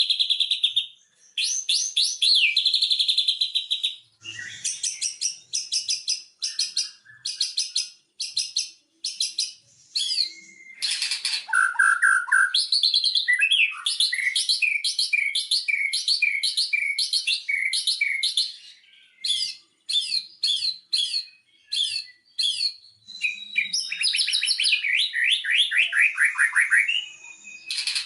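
White-rumped shama singing a long, varied song of rapid repeated notes, trills and sliding whistles, broken by short pauses. It is a lure recording played to get a silent caged shama singing.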